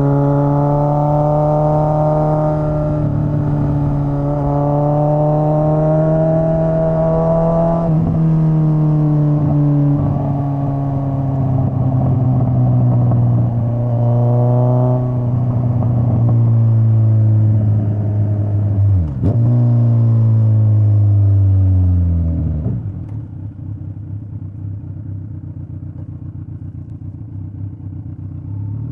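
Straight-piped Kawasaki Z900 inline-four motorcycle exhaust under way, its pitch climbing and falling with throttle and gear changes, with several sudden drops in pitch. Near the end it comes off the throttle and settles to a lower, quieter, rough rumble.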